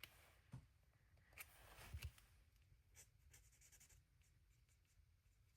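Faint scratching of a marker tip colouring on cardstock, with a few light clicks and taps.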